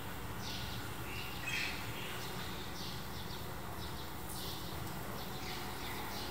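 Small birds chirping: short, high chirps that fall in pitch, repeated every half-second to a second, over a steady low background rumble.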